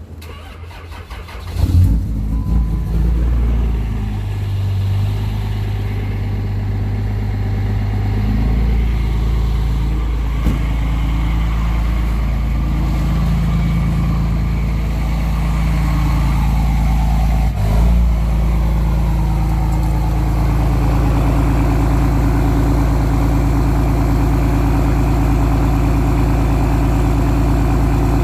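A 5.9-litre 24-valve Cummins inline-six diesel cold-starting at 10°F with no grid heater and no block heater: the starter cranks briefly, and the engine catches under two seconds in. It then runs, its note shifting a couple of times before it settles into a steady idle.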